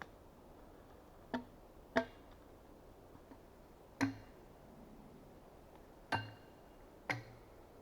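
Axe blows on wood: five sharp, irregularly spaced strikes, each leaving a brief ringing note from the axe head.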